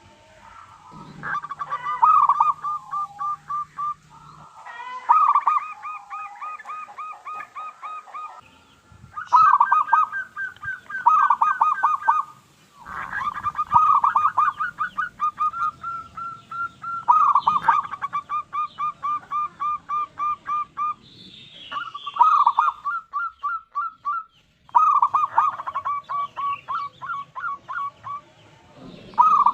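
Zebra dove (perkutut) cooing: a run of phrases, each a quick string of short, evenly spaced notes, with brief pauses between phrases.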